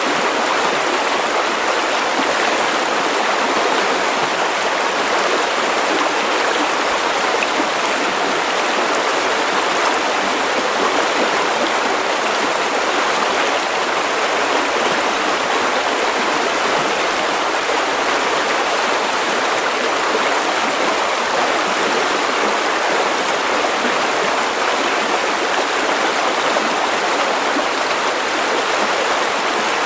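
River water running steadily over stones, a constant rushing babble.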